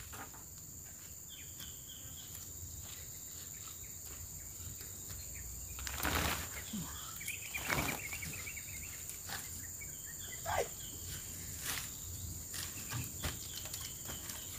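Quiet outdoor ambience with a steady high-pitched hum, broken by faint bird calls of short repeated notes several times. A few brief knocks and rustles come around the middle.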